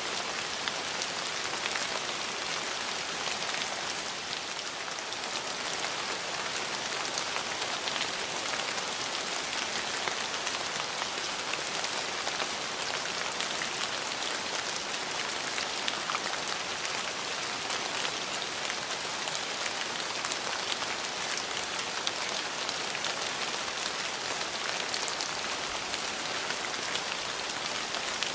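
Steady rain falling on hard surfaces, an even hiss with many small drop ticks throughout.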